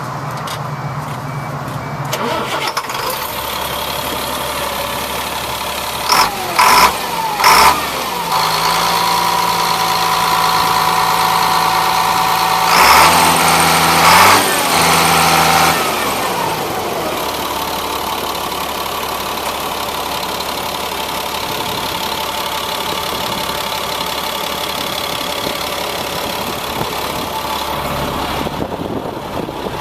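1999 GMC digger truck's engine starting a couple of seconds in, then running faster with a steady whine for several seconds before dropping back to a steady idle. Three short, loud, sharp sounds come about six to eight seconds in.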